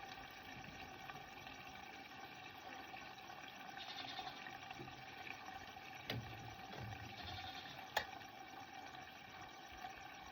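Fuel running steadily into a generator's tank, with two sharp clicks about six and eight seconds in.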